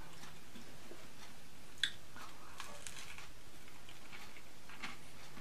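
A man chewing a mouthful of food, with a sharp click about two seconds in and a few fainter clicks and taps.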